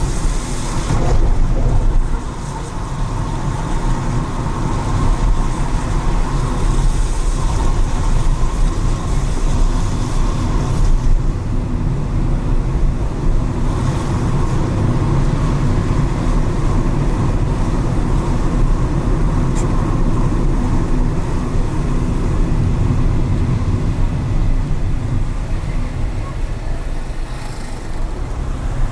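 Car driving through city traffic on rain-wet streets: steady engine and road rumble with tyre hiss from the wet pavement, louder for the first two seconds.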